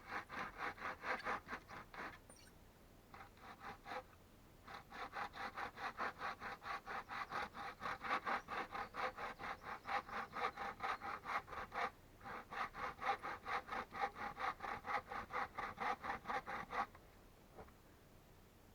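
Hand saw cutting through wood in quick, even back-and-forth strokes, with a couple of short pauses, stopping near the end.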